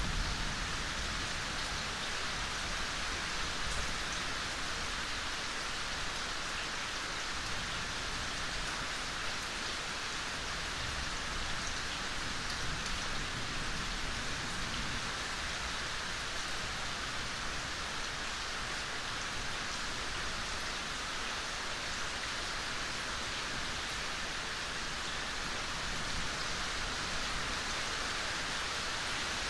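Soft, steady rain falling: an even hiss of many drops that does not let up.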